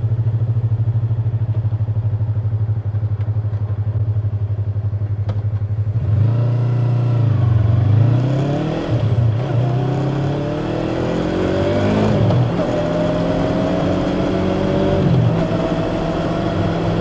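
Yamaha YZF-R25's parallel-twin engine on its stock exhaust runs steadily at low revs, then about six seconds in the motorcycle accelerates away, the engine note rising and dropping back with each of several upshifts.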